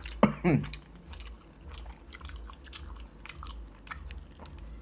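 Close-up eating of sauce-coated fried chicken: biting and chewing heard as faint, irregular clicks and smacks. A short burst of voice comes near the start.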